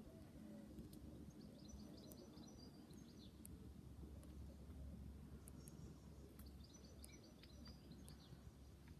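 Faint outdoor ambience: a low steady rumble with small birds chirping in two short spells, about a second in and again in the second half.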